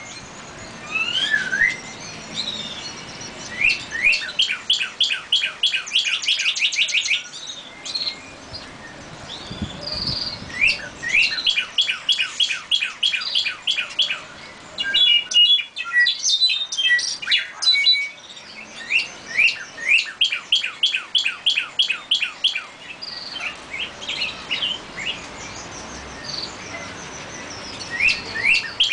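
Small songbirds singing: phrases of fast, repeated trilled notes a few seconds long, broken by single chirps and short whistled notes.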